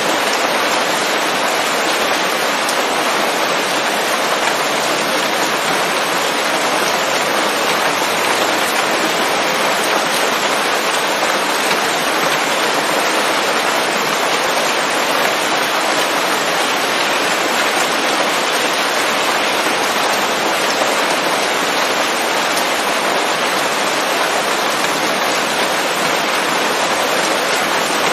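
Steady heavy rain falling on leaves, a dense even patter with no thunder.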